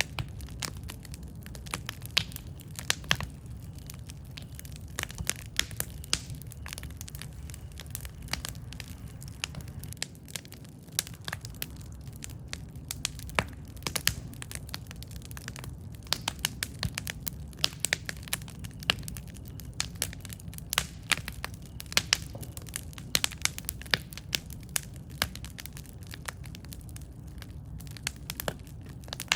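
Campfire burning: wood crackling and popping in irregular clusters of sharp snaps over a steady low rumble of flame.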